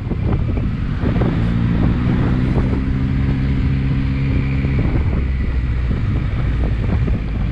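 Motorcycle engine running at a steady speed under even throttle, its hum holding one pitch for a few seconds before sinking back into a constant rush of wind on the microphone.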